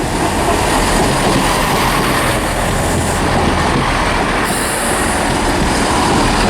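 Class 165/166 Turbo diesel multiple unit arriving into the platform: its diesel engines running and its wheels rolling over the rails. A high wheel squeal joins about four and a half seconds in.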